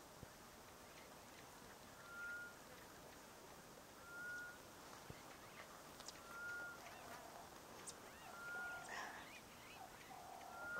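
A bird calling: one short, steady whistled note repeated about every two seconds, five times, with scattered faint chirps from other birds in the second half.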